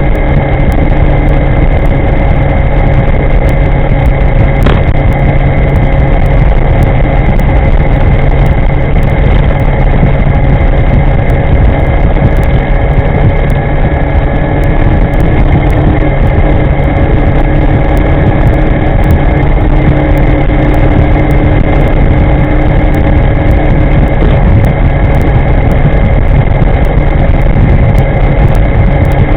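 Electric scooter riding at steady speed: a loud, even rush of wind noise over the microphone, with a few faint, steady whine tones running underneath.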